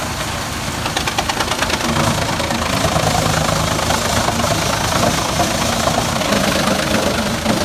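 A machine's engine running steadily under load, with a rapid clatter about a second in.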